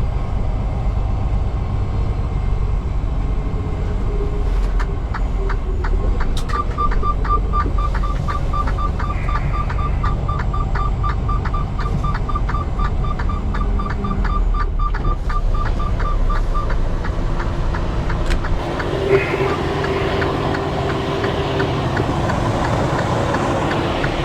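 Semi truck's diesel engine running low and steady while the rig is maneuvered at low speed. About six seconds in, a rapid series of short, even beeps starts and runs for about ten seconds before stopping.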